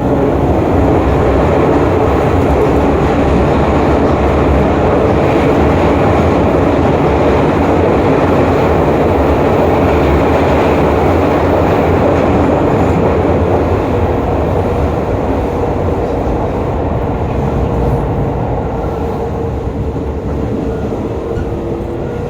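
Hokuso 7300-series commuter train, car 7301, running at speed, heard from inside the car: steady wheel-on-rail rolling noise with a faint whine from the GTO-VVVF traction motors. The noise eases off slightly near the end.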